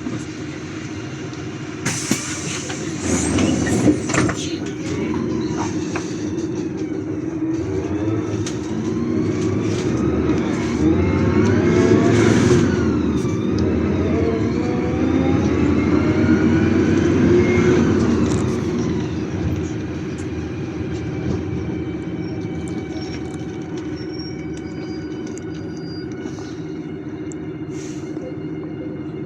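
City bus drivetrain heard from inside the cabin, its whine climbing in pitch as the bus speeds up and then falling as it slows, over a steady hum. There are a few rattles and knocks in the first few seconds.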